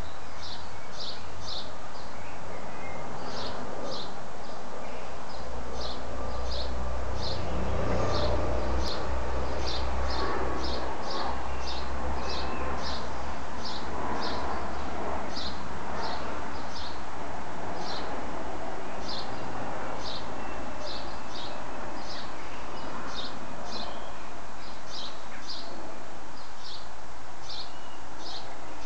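A small bird repeating one short, high chirp about once or twice a second, over a low rumble that swells in the middle.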